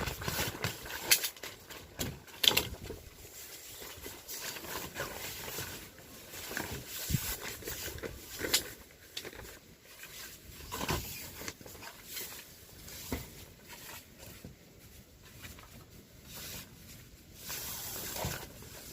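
Irregular clicks, knocks and rustling of things being handled, with a sharper knock about two seconds in.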